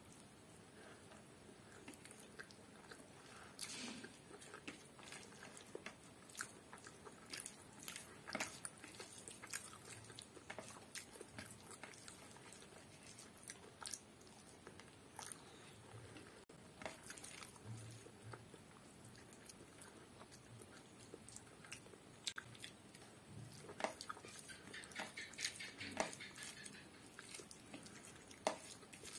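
A person chewing and biting mouthfuls of rice and curry eaten by hand, faint, with many scattered small clicks and crackles.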